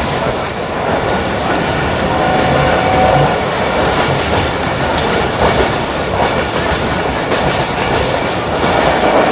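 Steady rumble and clatter of a passenger train's wheels on the track, heard from inside the moving coach.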